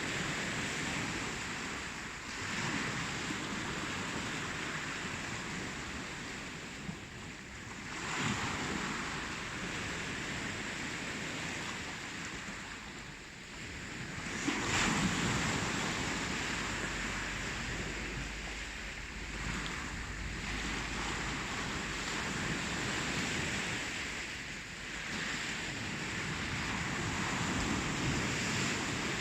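Ocean waves breaking and washing on the shore, a steady surf hiss that swells with each wave every few seconds, with a stronger surge about halfway through. Some wind rumble on the microphone runs underneath.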